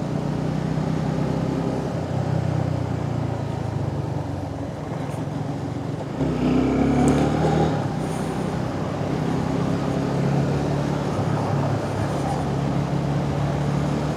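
Suzuki Gixxer 250's single-cylinder engine running at a steady cruise, heard from a helmet-mounted camera with wind rush over it. About six seconds in, a louder sound swells for under two seconds, then the steady engine and wind carry on.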